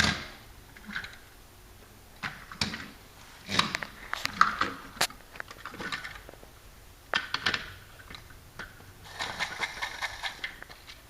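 Scattered clicks and knocks of plastic Trackmaster toy trains and track pieces being handled, coming in small clusters.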